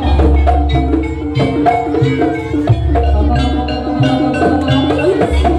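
Jaranan gamelan music played live: quick struck pitched percussion and drum strokes over a deep, sustained bass tone.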